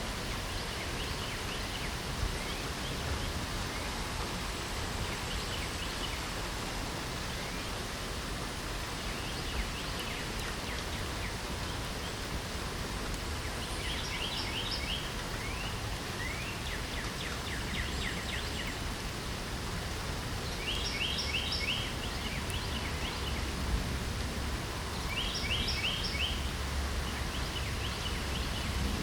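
Steady hiss of light rain, with a songbird repeating a short trilled phrase every few seconds in the second half and fainter bird chirps earlier.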